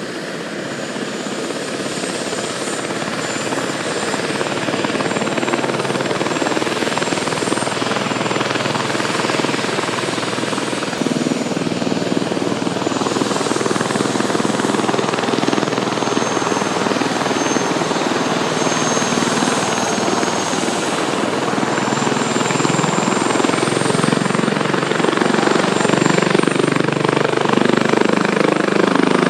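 Airbus H145 D2 twin-turbine helicopter running, a high turbine whine over the dense noise of the rotor, growing steadily louder.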